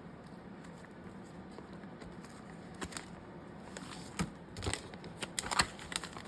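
Paper and craft supplies being handled and rustled: light clicks and crinkles starting about three seconds in, growing busier near the end.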